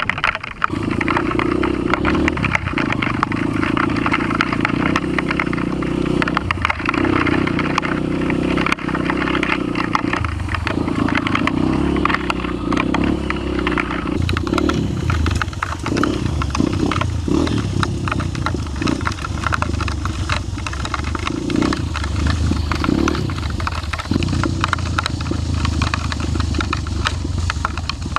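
Off-road motorcycle engine running under way, revving up and down with brief dips now and then. It settles lower in pitch in the second half.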